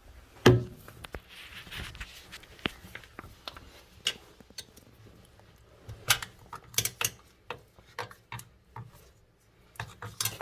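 Metal clinks and clicks of a hand tool working at the tight nuts on a toilet's floor bolts, with a heavier knock about half a second in.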